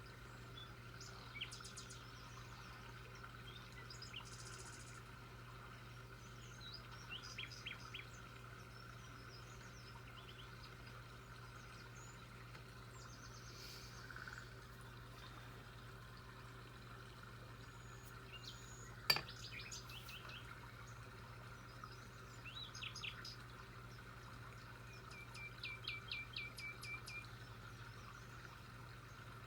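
Faint birdsong: scattered short runs of chirps, including a rapid series of about ten notes near the end, over a steady low hum. A single sharp click sounds about two-thirds of the way through.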